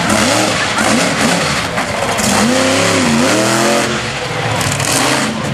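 Monster truck engine revving hard, its pitch climbing and dropping several times as the throttle is worked, with the biggest swing about halfway through.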